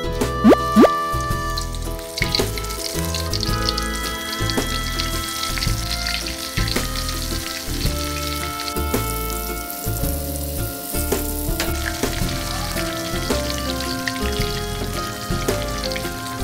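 Mushroom pieces sizzling and crackling as they deep-fry in hot oil in an aluminium wok, with a few sharp crackles as they go into the oil about half a second in. Background music plays over the frying.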